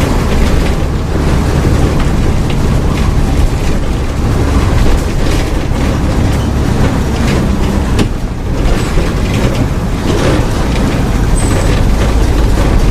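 Mercedes-Benz OF-1722M bus's diesel engine running at high revs, a steady low drone with occasional rattles and knocks from the bus.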